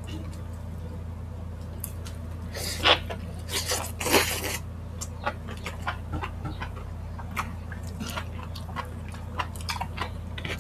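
Close-miked eating of spicy chicken feet and mushrooms: irregular wet chewing and mouth clicks, with a few louder wet smacks about three and four seconds in. A steady low hum runs underneath.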